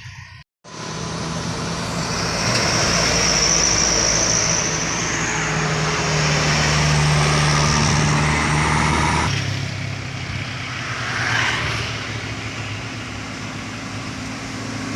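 Sugarcane truck's diesel engine labouring at full throttle, a steady heavy drone that is loudest mid-way and drops off suddenly about nine seconds in, as if the driver lifts off or shifts.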